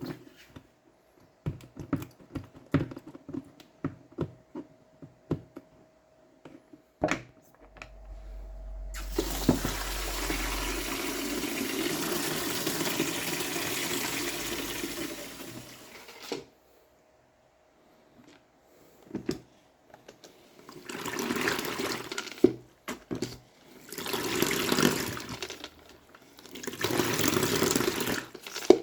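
Light clicks and knocks, then water running for about eight seconds, followed after a short gap by three shorter bursts of running or splashing water.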